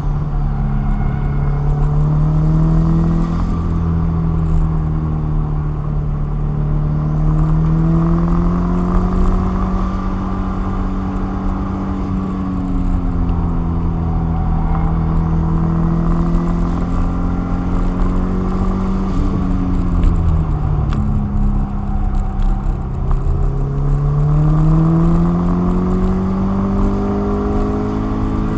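A car's engine heard from inside the cabin while lapping a racetrack, its revs rising and falling through the corners over a steady low road rumble. About two-thirds of the way through the revs drop sharply, then climb again.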